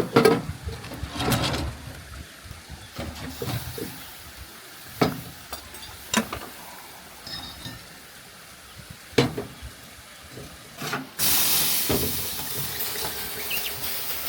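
Scattered clinks and knocks of kitchenware being handled, then water starts running steadily about eleven seconds in.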